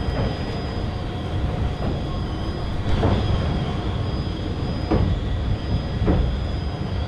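Passenger train running across a sea bridge, heard from an open coach doorway: a steady rumble of wheels on rails, with a few sharp knocks about three, five and six seconds in.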